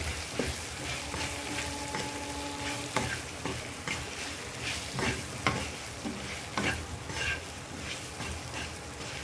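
Stuffed okra sizzling as it fries in hot mustard oil, while a wooden spatula tosses it around the pan with repeated scrapes and taps against the pan's surface.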